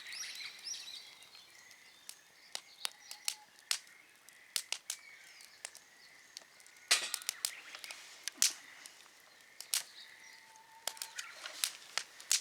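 Wood campfire crackling, with irregular sharp pops spread through, and faint bird chirps in the background.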